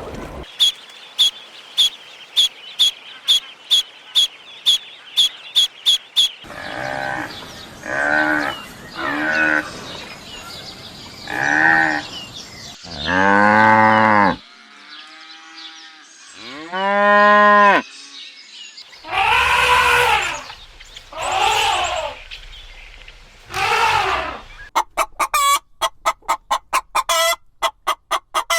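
A string of farm animal calls: a quick regular run of short clucking pulses, then several separate calls, among them two long, low cattle moos, and another fast run of short pulses near the end.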